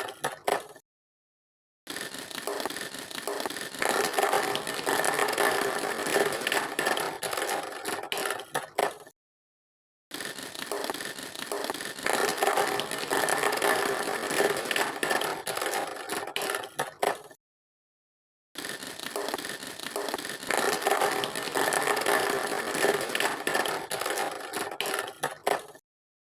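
Plastic toy vehicles rattling and scraping, in three stretches each broken off by a second of complete silence.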